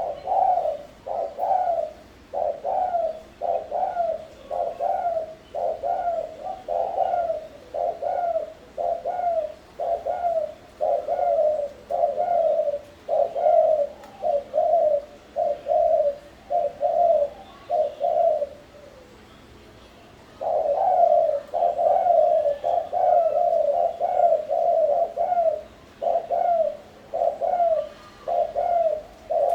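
Spotted dove cooing, its short coo phrases repeated one after another, with a pause of about two seconds shortly after halfway.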